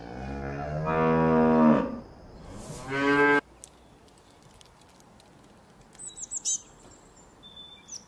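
A calf mooing twice. The first call is long, about two seconds; the second is shorter and rising in pitch, and cuts off suddenly. Later, faint high bird chirps come twice.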